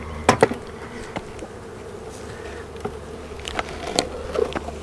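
A colony of honeybees buzzing steadily around an open hive, with a few sharp knocks, two near the start and two near the end.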